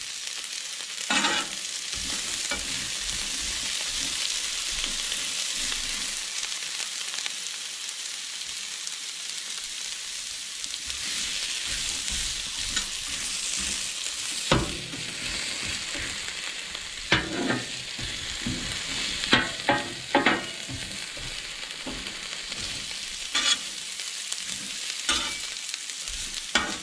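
Sliced bell peppers and onion sizzling in olive oil on a 22-inch Blackstone flat-top griddle, a steady hiss. A metal spatula scrapes and clacks against the steel griddle top now and then, mostly in the second half.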